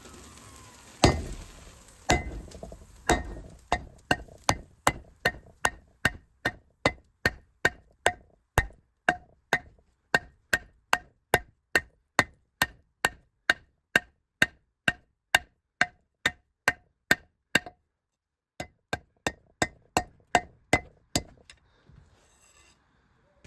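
Hammer blows forging steel on an anvil, each with a short metallic ring. A few heavy, slower blows come first, then a steady run of about two strikes a second; after a brief pause a shorter run of blows follows.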